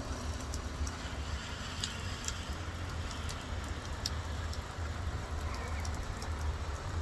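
Heavy rain pouring down: a steady hiss with many scattered drops ticking and splashing, over a constant low rumble.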